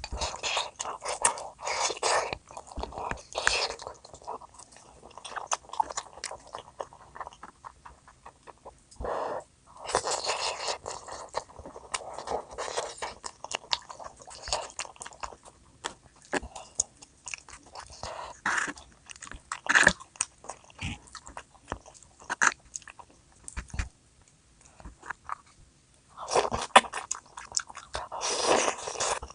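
Close-miked eating sounds: a person biting and chewing food, with sharp crunchy clicks coming in bursts and quieter chewing between.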